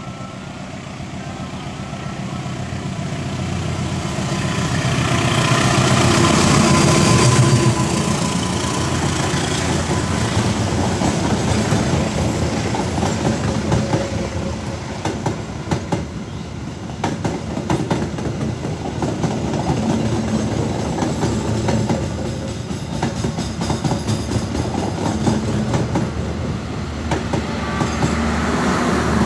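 Passenger train passing: a diesel locomotive's engine grows louder and peaks about seven seconds in, then the carriages' wheels keep up a clickety-clack over the rail joints as the train runs by.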